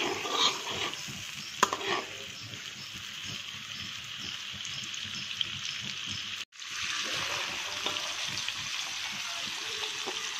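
Butter sizzling steadily in a wok, with a few sharp scrapes and knocks of a metal spatula in the first couple of seconds. The sound cuts out for an instant about two-thirds of the way through, then the sizzling resumes with sliced shallots and curry leaves frying in the butter.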